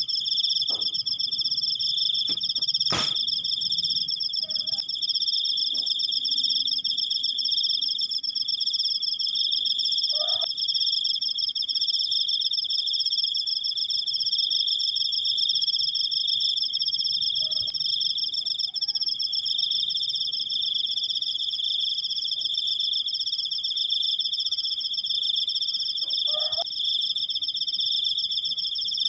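Crickets trilling: a long, unbroken, high-pitched trill, heard as two steady pitches at once. A sharp click sounds about three seconds in.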